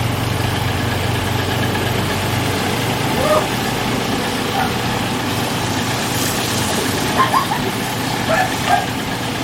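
High-pressure car wash spray wand jetting water, a steady loud hiss, with a low machine hum underneath that drops away about four seconds in.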